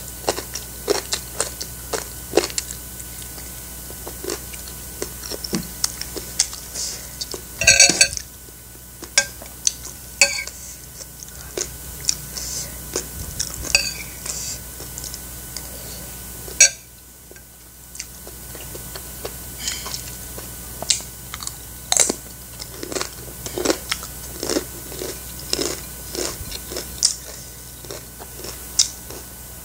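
Close-up mouth sounds of a person eating boiled chicken from a chicken soup: biting meat off the bone and chewing with many short wet clicks. Now and then cutlery knocks on a ceramic plate, with one sharp knock about 17 seconds in.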